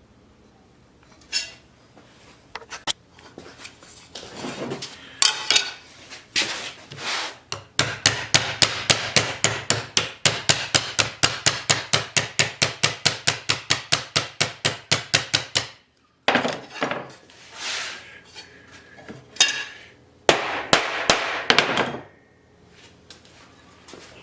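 Hammer blows on metal: a few scattered strikes, then a fast steady run of about four to five blows a second lasting some eight seconds. After a break, more irregular knocking follows.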